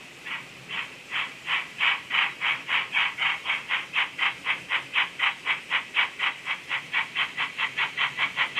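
Model steam locomotive's DCC sound decoder playing exhaust chuffs through its small speaker, the beats quickening from about three to about five a second as the locomotive picks up speed.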